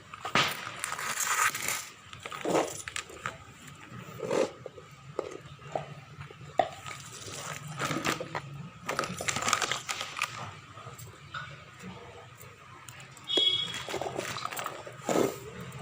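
Hands mixing cocopeat into potting soil in a hanging-basket pot: irregular rustling and scraping with small knocks.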